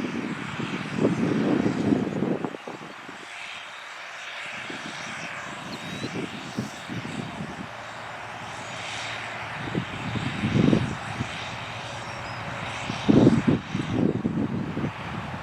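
John Deere 8300 tractor's diesel engine running as it pulls a cultivator, a steady drone with uneven low rumbling surges, the loudest about a second in and again near the end.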